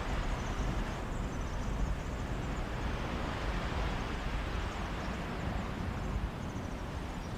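Sea waves washing onto a beach, a steady hiss of surf that swells about halfway through, with wind buffeting the microphone as a low rumble underneath.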